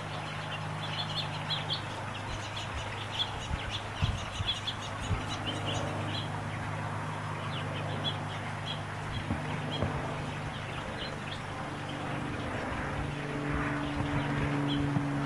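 Small birds chirping in short, repeated calls over a steady low hum, with a few soft knocks about four to five seconds in.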